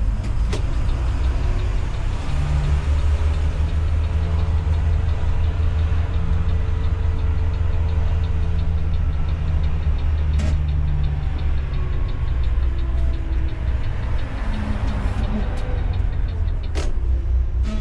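Intercity coach's diesel engine running steadily, heard from the driver's cab, with a faint fast even ticking over it. Three sharp clicks stand out, near the start, about halfway and near the end.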